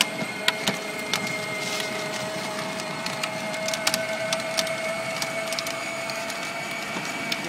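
12 V electric ride-on toy John Deere Gator driving: its motors and gearboxes whine at a steady pitch while its plastic wheels crackle and click over the ground.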